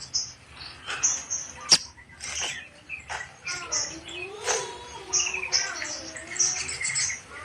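Sogon birds calling busily: rapid high chirps, sharp clicks and sliding whistled notes, with one loud click a little under two seconds in.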